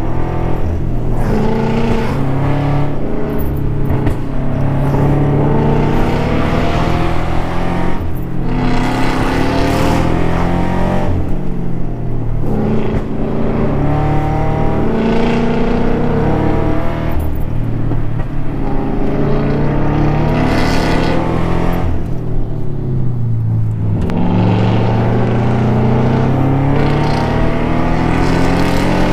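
Porsche engine pulling hard, its note climbing in pitch and then falling back at each gear change several times over, as the car is driven quickly through bends.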